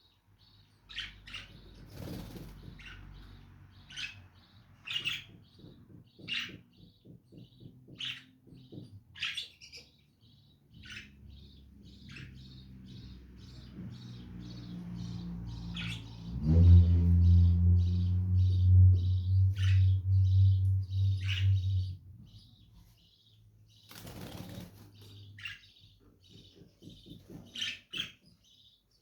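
Lovebirds giving short, high chirps again and again, with a couple of brief rushes of wing-flutter noise. About halfway through, a loud low hum lasts some five seconds and drowns out everything else.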